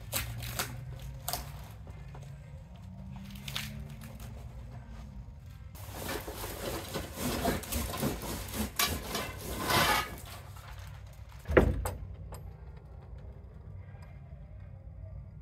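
Trellis parts being unpacked and handled: scattered knocks and clicks, a few seconds of scraping and rustling, then one loud thump.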